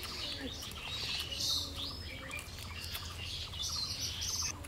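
Birds chirping over and over in quick high-pitched calls, with scattered faint clicks of someone chewing close by.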